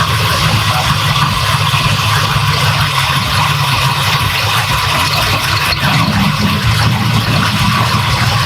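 The rebuilt truck's engine runs steadily on its first start-up test, its note rising slightly about six seconds in.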